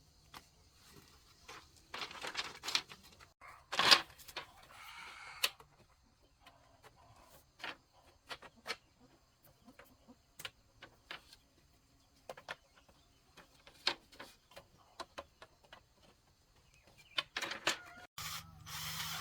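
Scattered knocks, taps and short scrapes of bamboo and tools being handled, with one louder knock about four seconds in.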